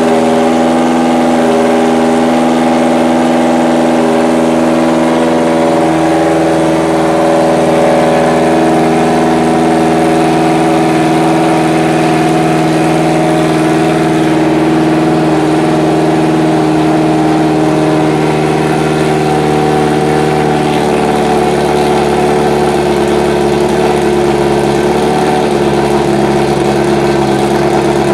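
Subaru Legacy B4 GT300 race car's engine running loud and steady at idle, its pitch shifting slightly a couple of times.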